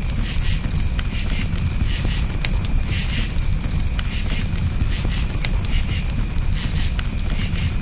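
Crickets chirping in a steady high pulsing trill over a crackling campfire, with frequent sharp pops and snaps and a steady low rumble beneath.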